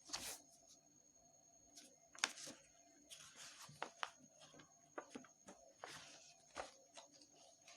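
Faint rustling and crinkling of a sheet of paper being handled and turned, in short soft swishes with a few light clicks between them.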